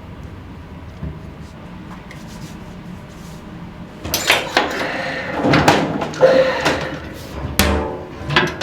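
Quiet room tone, then from about halfway through a run of sharp knocks and clattering, the sounds of work in a restaurant kitchen, with brief voices among them.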